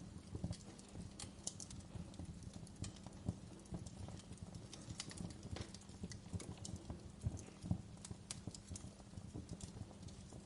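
Wood fire crackling in a fireplace: irregular pops and snaps of burning logs over a low rumble of flames.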